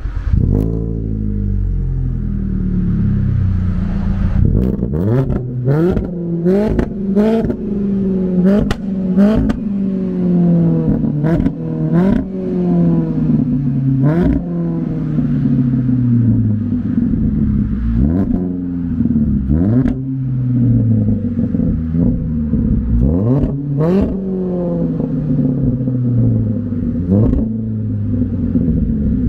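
2012 Hyundai Veloster's 1.6-litre four-cylinder engine, through a Borla aftermarket exhaust, starting up and then revved over and over in quick throttle blips, a dozen or more, each climbing sharply and falling back toward idle. Short sharp cracks sound at several of the revs.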